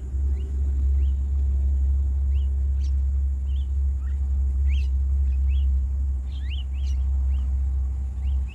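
Birds giving many short, quick rising chirps, scattered throughout, over a loud steady low rumble.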